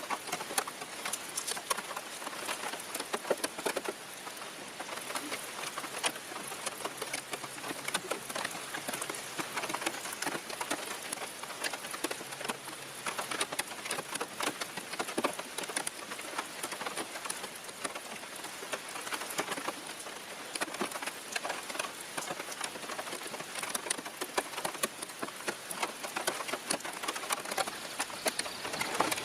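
Steady rain falling, a dense pattering of many small drops.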